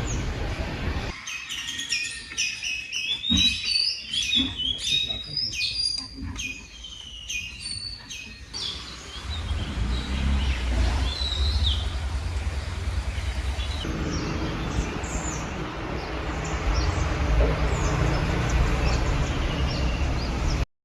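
Songbirds chirping and calling in quick, repeated high notes. From about a third of the way in, the calls become sparser over a steady low rumble.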